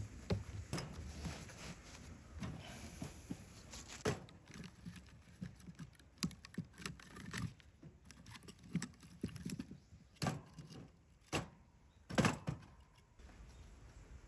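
Irregular short knocks and thuds, the loudest few coming between about ten and twelve seconds in.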